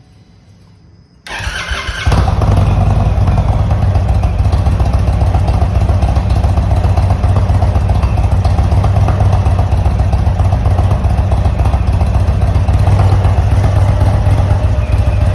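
Motorcycle with Indian oval slip-on exhausts starting up: the starter cranks briefly about a second in, the engine catches, and it settles into a loud steady idle.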